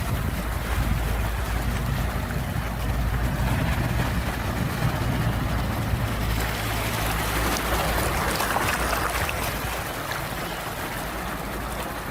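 Sea waves washing in: a steady roar of surf with a deep rumble underneath, swelling about two-thirds of the way through.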